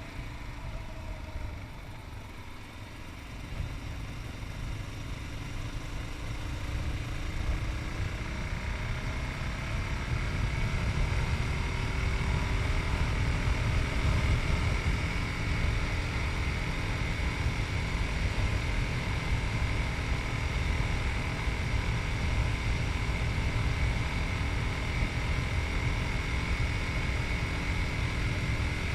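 Yamaha MT-03's 660cc single-cylinder engine pulling harder and rising in pitch over the first ten seconds or so, then running at a steady cruise, with wind noise on the microphone.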